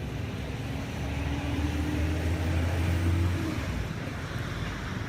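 A motor running with a steady low hum that stops suddenly about three and a half seconds in, over a background of outdoor noise.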